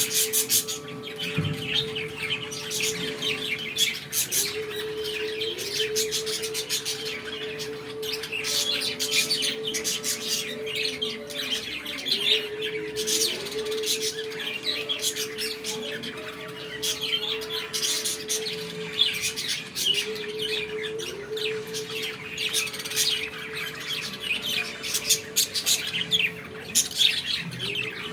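Pet budgerigar chattering continuously in rapid chirps, with a steady low hum underneath.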